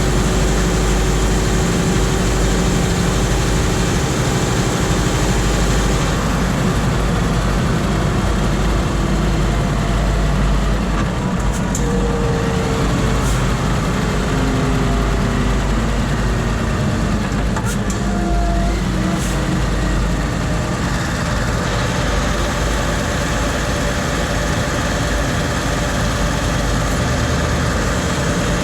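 Scania R520's 16-litre V8 diesel engine running with a steady deep drone. Its character shifts about six seconds in and again about twenty-one seconds in.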